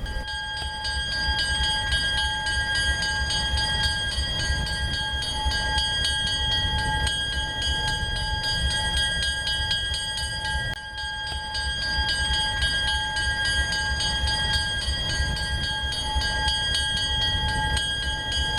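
Diesel train running: a steady low engine rumble with a constant high-pitched whine over it.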